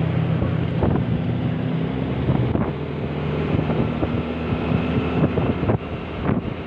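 A vehicle engine running steadily on the move, its pitch stepping slightly a couple of times, with wind buffeting the microphone and scattered short knocks from bumps.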